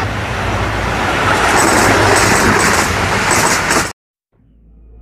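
Loud rushing rumble of a train passing at speed, with a high clatter repeating about twice a second. It cuts off abruptly about four seconds in, and soft music fades in near the end.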